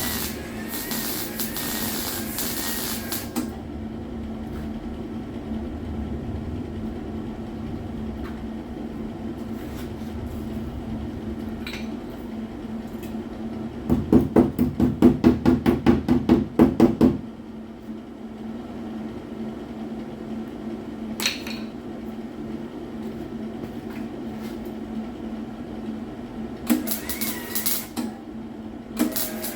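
MIG welding on a car body panel: crackling welder bursts at the start and again near the end, and a loud, rapid run of short pulses for about three seconds in the middle, over a steady low hum.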